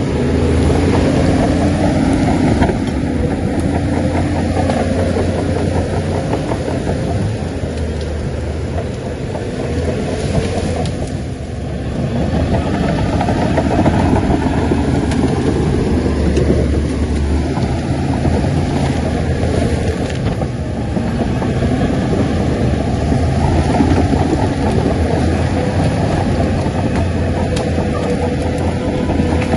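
Heavy diesel engine of a Shantui crawler bulldozer running under load. Its note and loudness rise and fall as it works, easing off around a third of the way in and again about two-thirds in.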